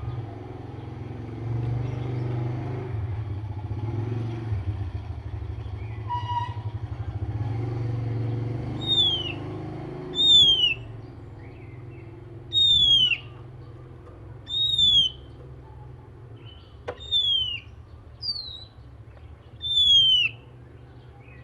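A motor vehicle's engine rumbles through the first half. Then an oriental magpie-robin (kacer) gives a series of loud, clear whistles, each sliding down in pitch, about one every two seconds, seven in all.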